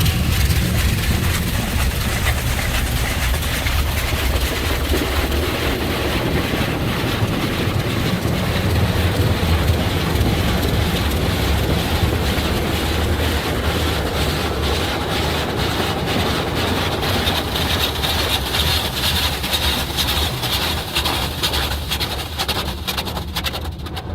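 High-pressure water from a Coleman Hanna Water Wizard 2.0 car wash's rotating zero-degree nozzles spraying over the car, heard from inside it. It is a loud, steady hiss of water on the body and glass over a low rumble; the spray grows brighter later on, then eases near the end.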